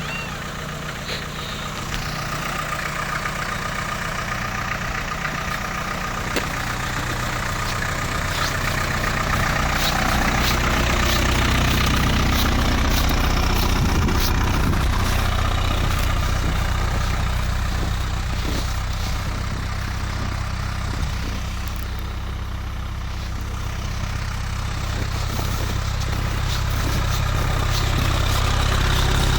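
Land Rover Series III 2.25-litre four-cylinder diesel idling after a cold start in freezing weather. Its low, steady running note grows louder about a third of the way in, eases back about two-thirds through, and rises again near the end.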